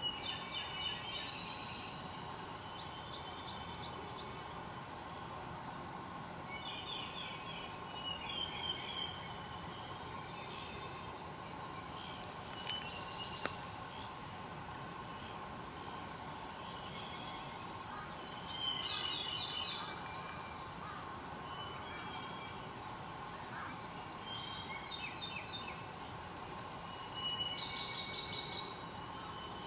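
Wild birds calling and singing: short repeated chirps and trilled phrases from more than one bird, with sharp single notes about once a second in the middle, over a steady background hum.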